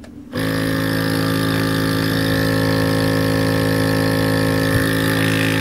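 Pari Trek portable nebulizer compressor switching on a moment in and running steadily, a loud, even motor-and-pump hum.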